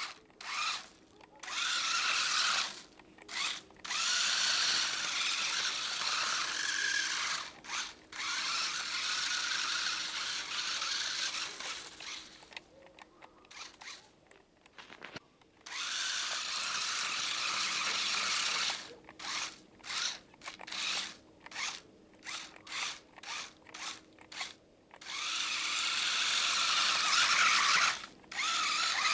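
Radio-controlled car's motor and gears whining on the throttle. Long stretches of whine are broken by a quick run of short throttle blips in the second half.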